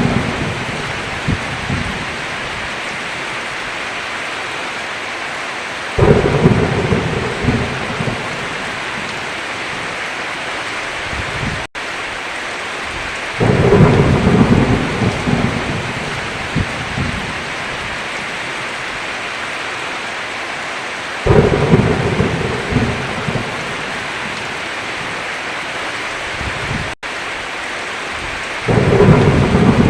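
Heavy rain falling steadily, with four loud rolls of thunder that each start suddenly, about every seven and a half seconds, and fade out over a few seconds. The sound cuts out for an instant twice.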